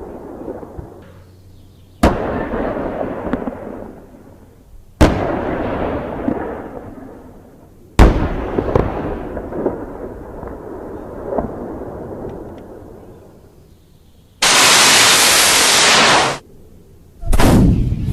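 Three single heavy gunshots about three seconds apart, each followed by a long rolling echo that fades over a couple of seconds. Near the end comes a different sound, a dense two-second blast of noise that cuts off suddenly, then a shorter one.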